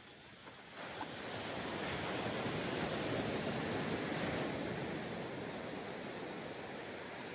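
Sea waves breaking on a sandy beach: a lull, then a wave's rush swells about a second in and slowly fades as it washes up the shore.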